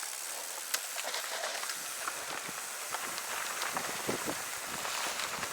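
Mountain bike rolling down a dirt trail: steady tyre noise on dirt and gravel with scattered clicks and rattles, growing rougher and rumblier from about two seconds in.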